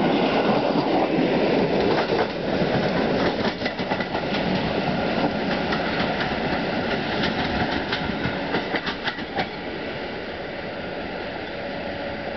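Electric passenger train running away from the platform: a steady rumble with a quick run of wheel clicks over the rail joints, the clicks stopping after about nine seconds and the sound fading as it recedes.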